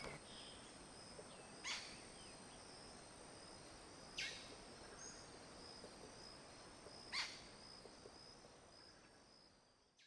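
A bird gives three sharp, steeply descending calls, a couple of seconds apart, over a steady high insect drone with a regular pulsing insect note.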